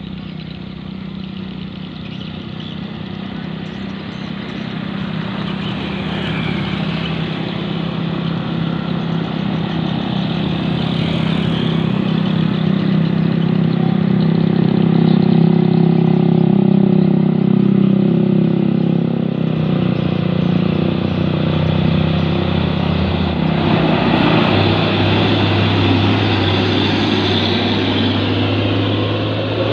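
Heavy 8x4 dump truck's diesel engine labouring under load, growing louder over the first half. Its engine note drops lower about twenty seconds in.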